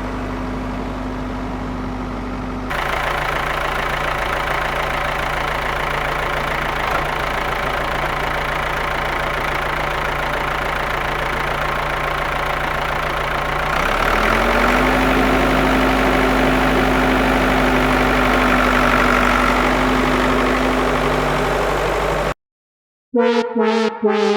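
A motor or engine running steadily with a humming tone, which shifts abruptly about three seconds in and again about halfway through. It cuts off near the end, and after a moment of silence a short synthesizer jingle starts.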